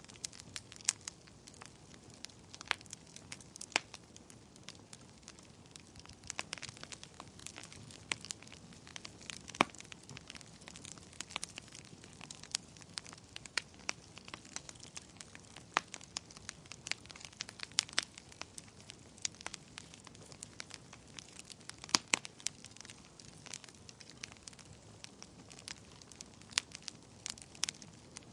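Wood fire burning in a fireplace: a low steady hiss with irregular crackles and sharp pops, a few louder snaps scattered throughout.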